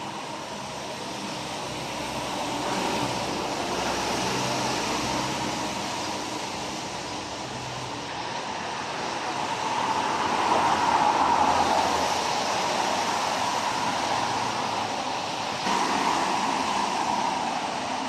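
Traffic passing on a wet road: a steady tyre hiss that swells as vehicles go by, loudest about ten seconds in and again near the end.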